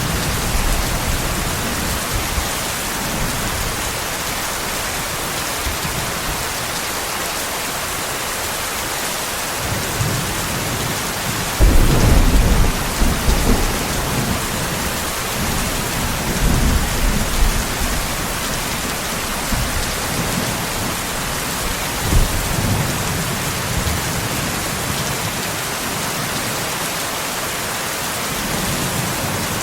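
Steady heavy rain with a sudden clap of thunder about twelve seconds in, followed by lower rolling rumbles over the next several seconds and a short one about ten seconds later.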